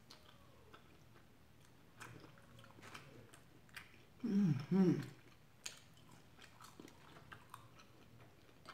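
Close-up chewing of sauced chicken wings, with scattered wet mouth clicks. About four seconds in comes a loud two-note closed-mouth hum of approval.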